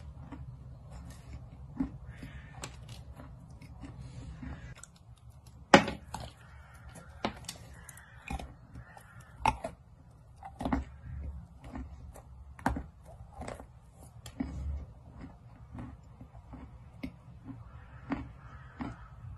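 Red clay coated with white clay paste crunching between the teeth as it is chewed: irregular crisp crunches and clicks, the loudest a sharp crack about six seconds in.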